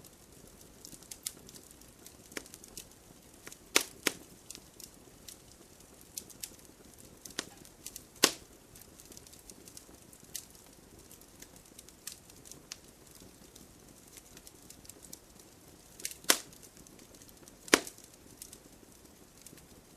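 Wood campfire crackling: scattered sharp snaps and pops at irregular intervals over a low steady hiss, with a handful of much louder pops a few seconds apart.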